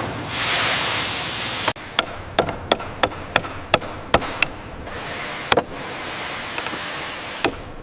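A steady hiss that cuts off suddenly just under two seconds in, followed by a run of sharp, irregular knocks like hand tools striking wood, several a second at first and sparser later.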